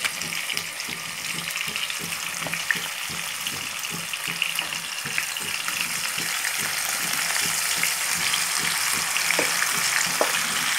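Yogurt-marinated chicken frying in hot oil and ghee in a nonstick kadai: a steady sizzle as the wet marinade hits the oil, with a few sharp ticks from the spatula.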